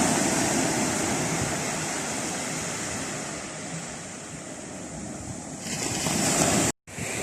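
Ocean surf: waves washing in, the rush fading and then swelling again as the next wave comes in. The sound drops out for an instant near the end.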